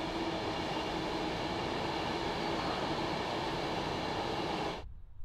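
Train running past: a steady, loud rumble and rush with a held tone in it, cutting off suddenly near the end.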